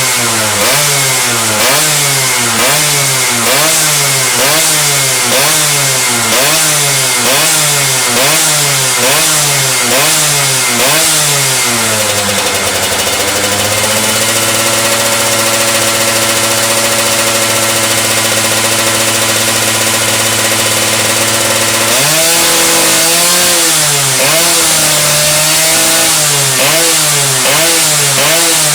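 Yamaha F1ZR's single-cylinder two-stroke engine being blipped through the exhaust, quick rev rises and falls just over once a second. About halfway through the revs are held steady at a raised speed for several seconds, then the rhythmic blipping starts again.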